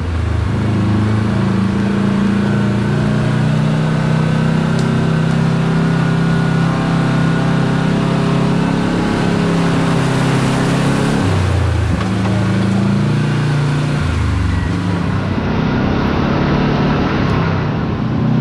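Side-by-side UTV engine running under way at steady speed, with the engine note dropping and picking up again about two-thirds of the way through and once more near the end, as the throttle eases and comes back on.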